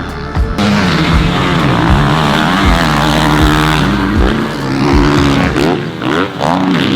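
Motocross bike engine revving hard, its pitch repeatedly rising and falling as the throttle is worked on the track.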